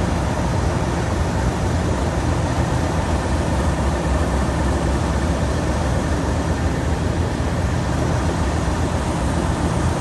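Class 37 diesel locomotive's English Electric V12 engine idling steadily, a low, even sound with no change in pace.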